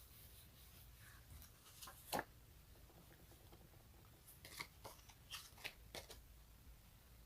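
Quiet sticky crackles and ticks from a tacky surface being touched and pulled apart: scattered small clicks, one sharper about two seconds in, and a run of them between about four and six seconds in.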